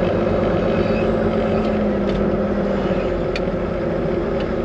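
Volvo VNL 860 semi-truck's diesel engine running steadily at low speed, heard from inside the cab as a continuous low drone.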